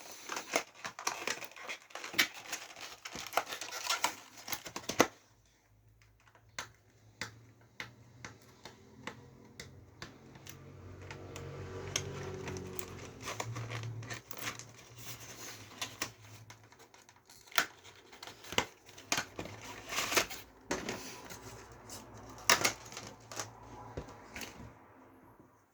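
Handling of computer parts: many small plastic clicks and taps with crinkling, as a 32 GB RAM stick is taken out and readied for fitting. A low hum swells and fades in the middle.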